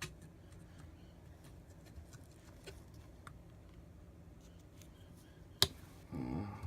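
Faint clicks and taps of small objects being handled on a tabletop, with one sharp click about five and a half seconds in.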